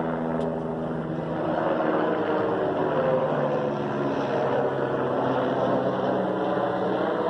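A train passing at a level crossing: a steady engine drone over a continuous rumble, the droning hum fading after about four seconds while the rumble carries on.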